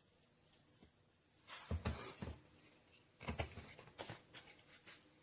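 Two short bouts of rustling and light knocking, about a second and a half in and again about three seconds in: garlic being put into the electric grinder's cup. The motor is not running.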